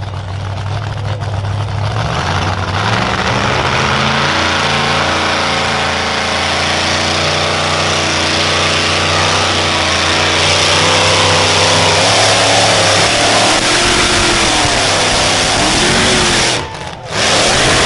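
A pulling vehicle's engine running hard at full throttle under load as it drags the sled. Its pitch climbs in steps, then wavers up and down, and the sound cuts off sharply near the end before a short burst returns.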